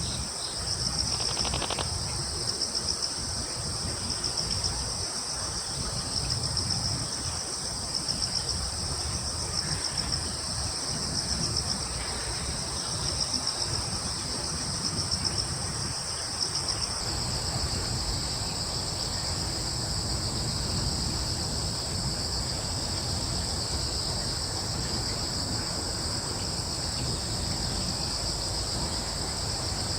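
Crickets trilling steadily at two high pitches layered together, with a low, even rush of breeze beneath. The trill swells and fades about every second and a half, then settles into an even drone about seventeen seconds in.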